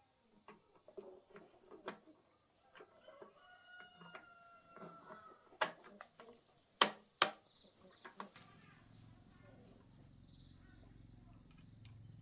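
A rooster crowing once, a drawn-out pitched call, in the middle. A few sharp metallic clanks follow, and near the end a low steady hum starts up.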